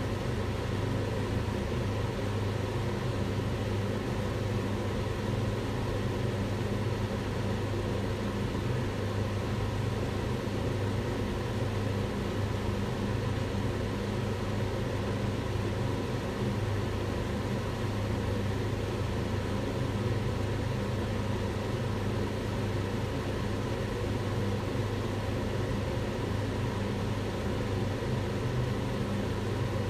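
Kitchen range hood fan running steadily: an even rush of air over a low hum, unchanging throughout.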